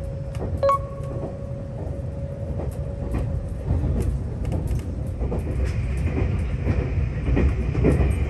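Nagano Electric Railway train running: a steady low rumble from the carriage, with scattered clicks of the wheels over rail joints. A steady tone sounds for the first few seconds.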